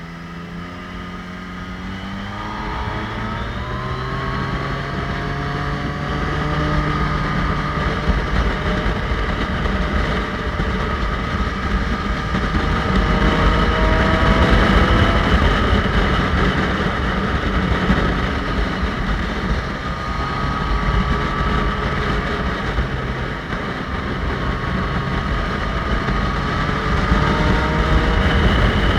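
Motorcycle engine under way, its note climbing as it pulls up through the revs in the first several seconds and growing louder. The engine note eases off later on and climbs again near the end.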